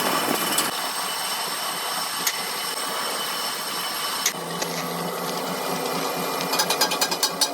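A workshop machine running steadily with a constant whine, joined near the end by a quick series of sharp ticks.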